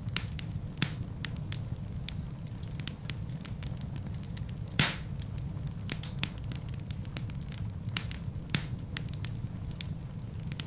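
Fireplace fire crackling, with many sharp pops and snaps over a steady low rumble of the flames; the loudest pop comes about halfway through.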